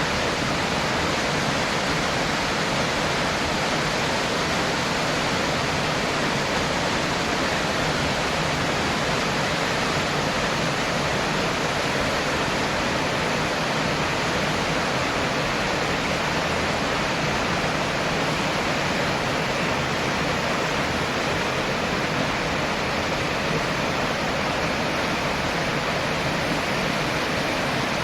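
Waterfall: water falling and splashing into a pool, a steady rushing hiss.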